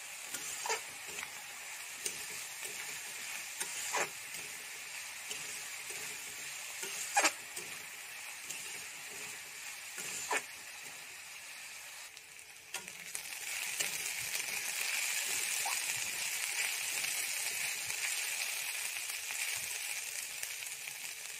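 Onions, green chillies and ginger-garlic paste sizzling in hot oil in a kadhai, stirred with a spatula that scrapes and knocks against the pan about every three seconds. The sizzle grows louder about two-thirds of the way through.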